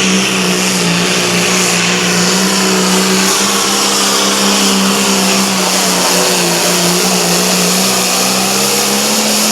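Competition pulling tractor's engine running at full throttle under load, a loud steady high engine note that holds one pitch throughout.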